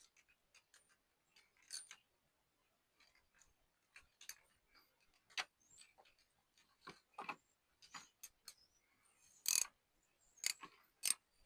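Irregular light clicks and taps of a new oil filter cartridge and its plastic housing cap being fitted and threaded onto a BMW B58 engine, a little louder near the end.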